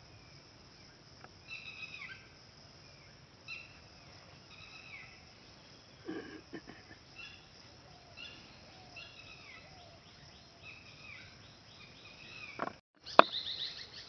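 Birds calling: short descending chirps repeat every second or two. Near the end the sound briefly drops out and a sharp click follows.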